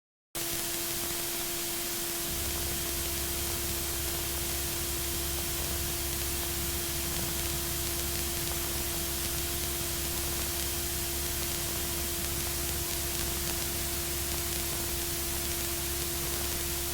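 Steady static hiss with a constant humming tone on the aircraft's intercom and radio audio feed, which cuts in suddenly just after the start; a deeper low hum joins about two seconds in.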